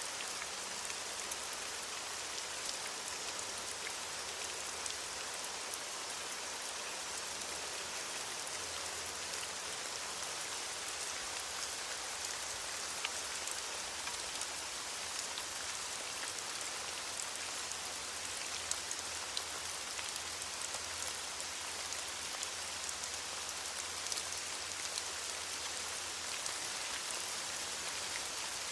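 Steady rain falling on leaves, an even hiss with many small drop ticks.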